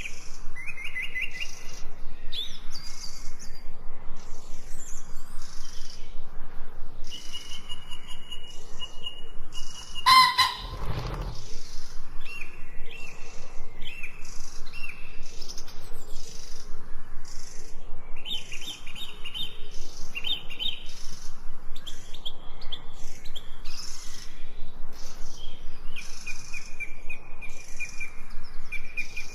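Forest birdsong: many small birds chirping, trilling and whistling in overlapping short phrases. About ten seconds in, one louder, brief call stands out above the chorus.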